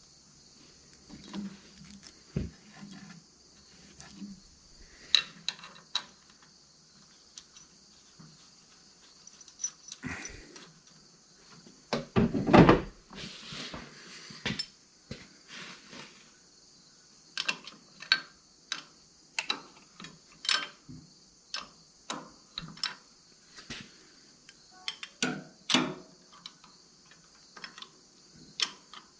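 Hand tools working the starter's mounting bolts as lock washers are fitted: a run of sharp clicks and knocks, with a louder clatter about twelve seconds in.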